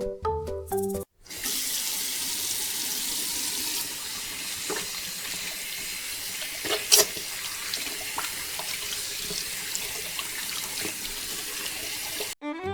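Water pouring and gushing steadily, as from a mini water pump's outlet pipe draining a pond, with a few short knocks and splashes, the sharpest about seven seconds in.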